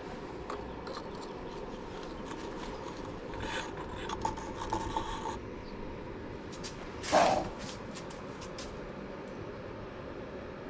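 Metal tongs and a crucible scraping and clinking while molten aluminium is poured into a mould, with a few light clicks and one loud clank about seven seconds in, over a steady background hum.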